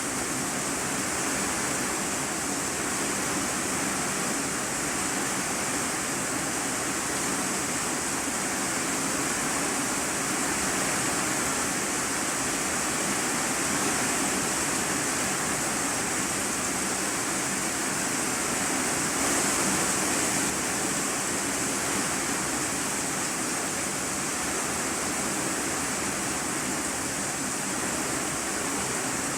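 Heavy rain falling on an iron-sheet roof, heard from inside the room beneath it: a steady, dense hiss that swells briefly a little past the middle.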